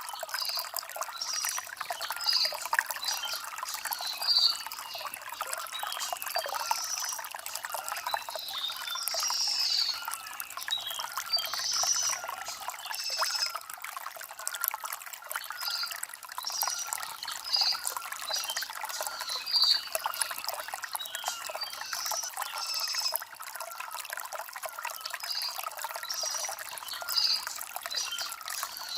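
Shallow stream trickling and gurgling over river stones, with a bird chirping in short, high notes repeated every second or so.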